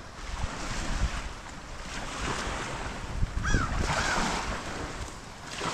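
Choppy bay waves washing on a sandy shore, with wind buffeting the microphone.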